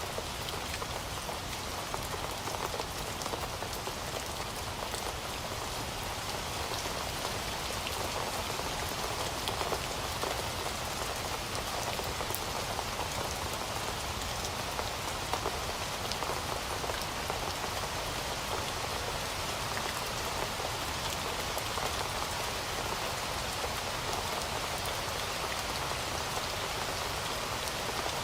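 Heavy rain falling steadily, a dense even hiss of many drops hitting a surface, with fine individual drop ticks within it.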